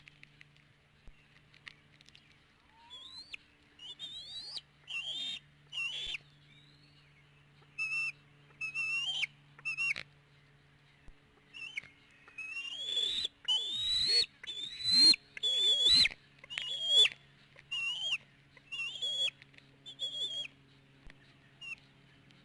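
Bald eaglets calling in a long series of short, high, piping whistles that rise and fall in pitch. The calls come thickest and loudest in the middle and thin out near the end. A faint steady low hum runs underneath.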